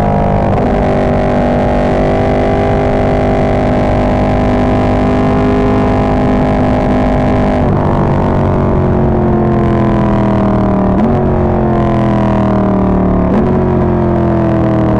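Ducati 1299 Panigale's L-twin engine through an Austin Racing GP2 full exhaust, loud and distorted by an overloaded microphone. It pulls at a fairly steady pitch for about half the time, then the revs fall as the bike slows. Near the end there are two downshifts, each with a quick rise in engine pitch.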